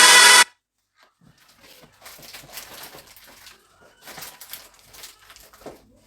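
Background music cuts off suddenly about half a second in. Then come irregular, faint rustling and crinkling of food packets and wrappers being handled.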